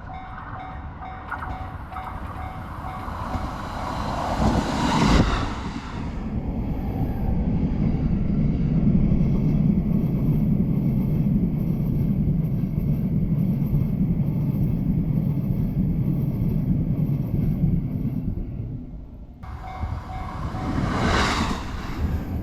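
Train passing a level crossing: the crossing's warning bell ringing, the train's approach rising to a loud peak about five seconds in, then a long steady rumble of the cars running over the rails. After a sudden break near the end, the bell is heard again and another train rushes past.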